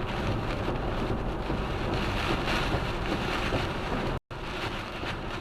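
Steady rushing noise of wind, rain and road while travelling on a motorway in a storm. About four seconds in, it drops out to silence for a split second.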